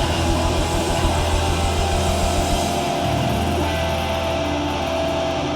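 Live hardcore band's electric guitars and bass ringing out in held, sustained notes through the PA, with a low bass drone that changes about three seconds in.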